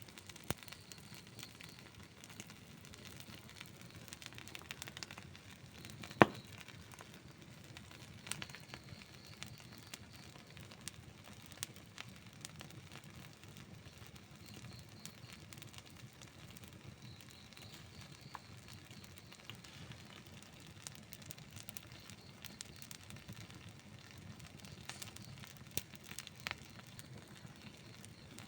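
Outdoor wood campfire crackling steadily with frequent small pops, and one loud snap about six seconds in.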